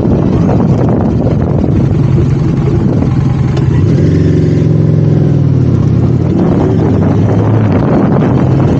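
Motorcycle engine heard over wind on the microphone. About halfway through, the wind eases and the engine note falls in pitch, then holds steady, as the bike slows.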